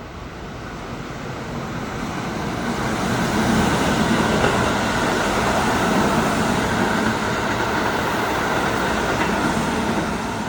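Keihan electric train running past: a steady rumble and rush of wheels and motors that builds over the first few seconds, holds, and begins to fade near the end.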